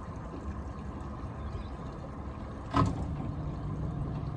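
Small boat's outboard motor running steadily at slow trolling speed, with one sharp knock about three seconds in.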